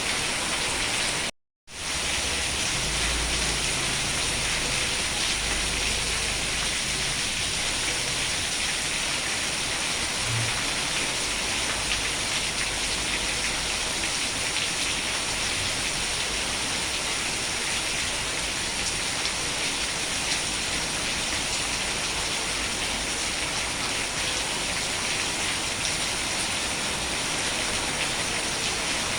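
Steady rain falling, an even hiss of drops with no break in intensity. The sound cuts out completely for a fraction of a second about a second and a half in, then resumes.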